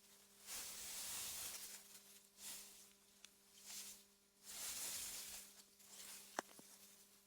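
Wind gusting through meadow grass, a soft rushing that swells and fades four or five times. A faint steady low hum runs beneath, and a single sharp click comes about six seconds in.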